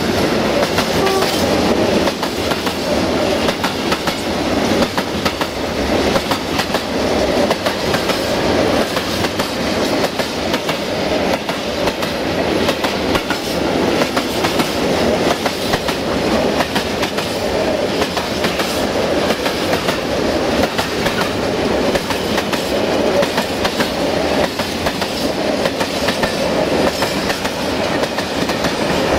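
Freight train of tank wagons rolling past, wheels clicking over the rail joints in a steady clatter.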